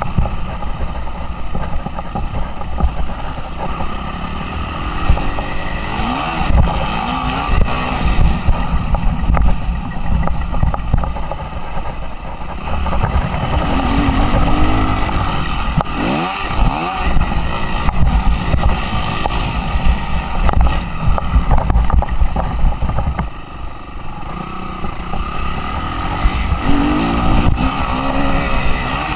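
Suzuki RM-Z 250 single-cylinder four-stroke motocross engine working hard through a lap, its revs rising and falling repeatedly as the rider accelerates and shifts, with wind buffeting the microphone.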